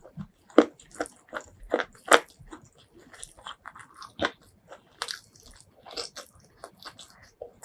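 Close-miked eating sounds: a person biting and chewing food, with irregular crunches and wet mouth clicks, several a second.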